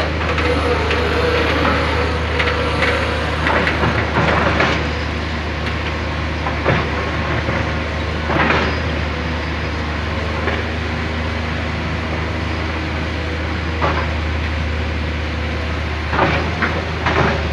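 Excavator working: its diesel engine runs with a steady low drone while the arm and bucket give off irregular knocks and clanks.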